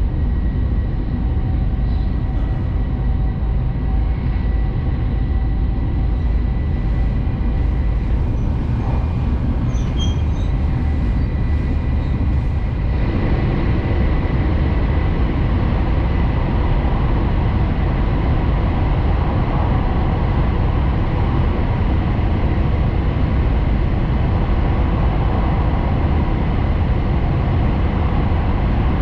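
Hayabusa Shinkansen bullet train running at speed, heard from inside the passenger cabin as a steady heavy rumble with a rushing hiss. About halfway through, the rushing grows louder and fuller.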